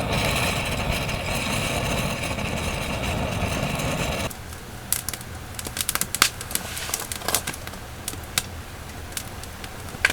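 A steady, loud hiss that cuts off suddenly about four seconds in, then a burning wood fire crackling with irregular sharp pops.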